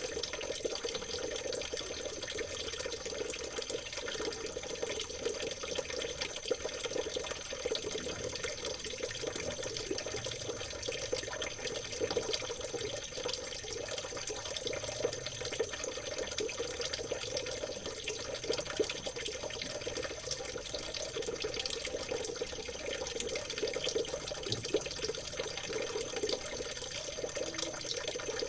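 Stream water trickling and babbling steadily over stones, with a thin steady high tone underneath.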